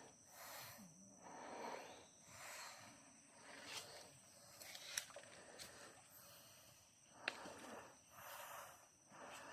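A hiker breathing hard, about one breath a second, with two sharp clicks of steps on the trail about five and seven seconds in. A faint, steady, high-pitched hum runs underneath.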